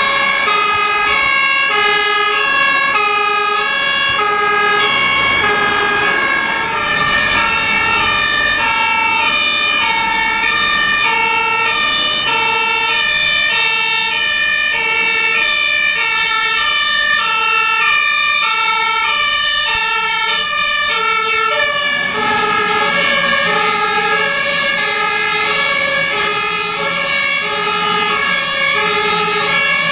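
German two-tone fire engine sirens (Martinshorn) alternating steadily between a high and a low note, with more than one vehicle's siren overlapping out of step. The mix of sirens shifts about two-thirds of the way through.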